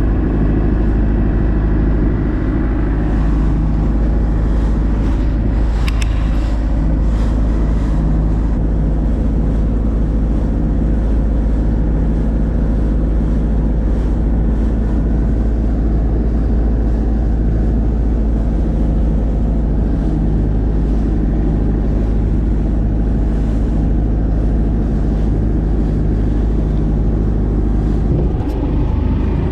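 Fishing boat's engine running steadily on board, a loud, even low drone that does not change.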